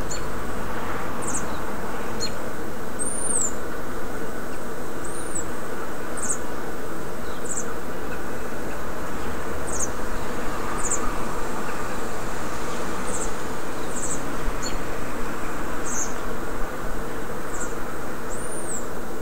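Small birds chirping in short, high notes, some rising and falling, repeated every half-second to a second over a steady background noise.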